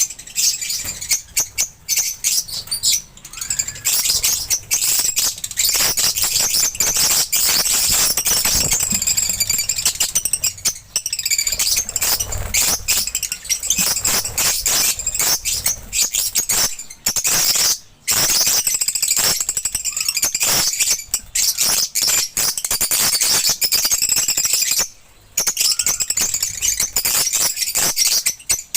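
Lovebirds chattering: a continuous shrill mass of rapid, high-pitched chirps and screeches, with a couple of brief pauses.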